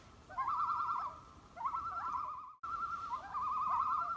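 Common loon giving its tremolo call: a rapidly wavering, quavering note, each phrase about a second long and opening with a short rising note, repeated about four times. The call cuts out abruptly about two and a half seconds in, then resumes.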